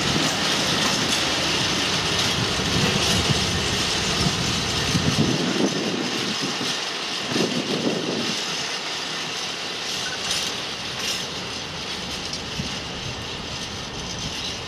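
Covered steel-carrying freight wagons rolling past on the rails, a steady rush of wheel-on-rail noise with a few faint clacks. The sound fades as the last wagon goes by and the train draws away.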